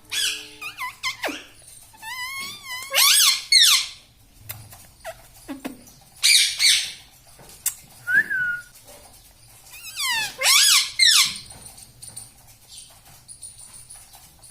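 Indian ringneck parrot calling loudly in several bursts of high, sweeping screeches and squawks, falling quiet in the last few seconds.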